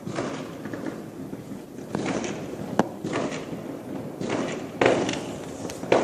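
Distant fireworks exploding, heard from indoors with the window closed: a string of bangs over a rumbling background, the sharpest about two, three, five and six seconds in, each trailing off in an echo.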